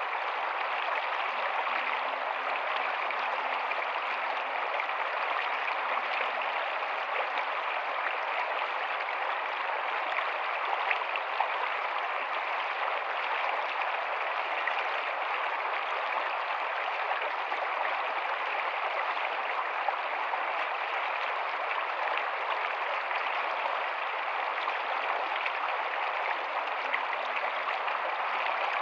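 Rocky stream running steadily over stones, a constant even rush of water with a few small splashes.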